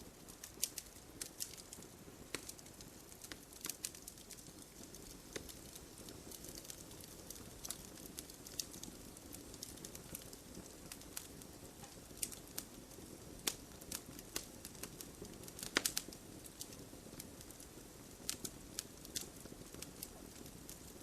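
Wood fire crackling: irregular sharp pops and snaps from burning logs over a low steady hiss of flames, with a brief flurry of louder pops near the end.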